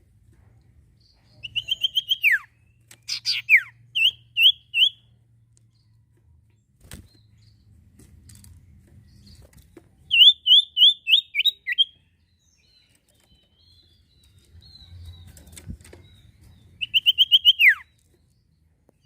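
A sirtu songbird singing in short bursts of quick, high repeated chirps, some ending in a falling sweep. There are three bursts with pauses of several seconds between them, over a faint low hum.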